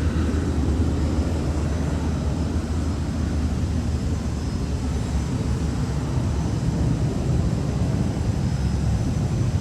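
HondaJet's twin turbofan engines, a steady low rumble with no rise or fall.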